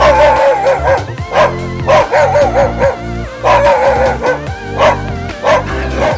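A dog making short barks and repeated wavering high calls over background music.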